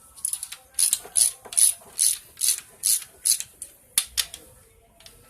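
Hand socket ratchet wrench worked back and forth to undo a fastener during engine disassembly, a burst of ratchet clicks on each stroke, about two and a half strokes a second. The strokes are followed by a single sharp metal click about four seconds in.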